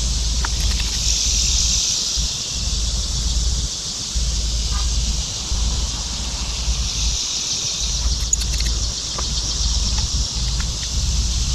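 Outdoor ambience: a steady high-pitched hiss that swells and fades slowly, with gusts of wind rumbling on the microphone and a few faint clicks.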